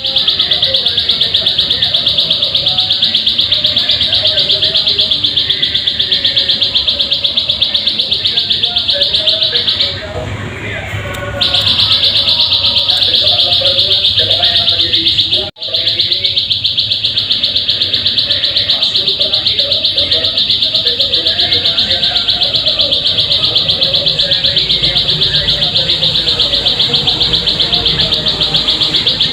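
Plain prinia (ciblek sawah) song: a fast, high, buzzing trill repeated almost without pause. It breaks off for about a second and a half around ten seconds in, and cuts out for an instant a few seconds later.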